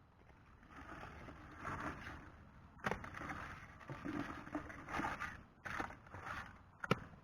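Water splashing and sloshing in irregular swishes, with two sharp knocks, one about three seconds in and one near the end.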